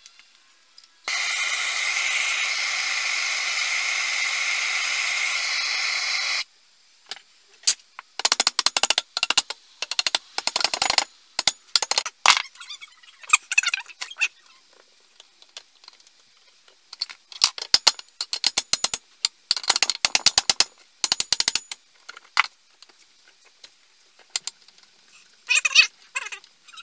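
Workshop restoration work on chainsaw parts: a steady hiss for about five seconds that cuts off abruptly, then repeated short bursts of rapid rasping strokes with pauses between them.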